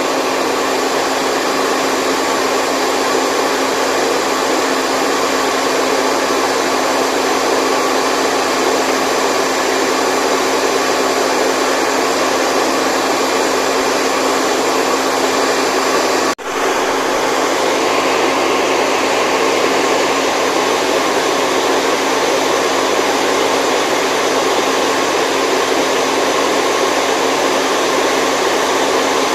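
Steady, loud white noise, an even rushing hiss like a running hair dryer, that drops out for an instant about sixteen seconds in and picks up again unchanged.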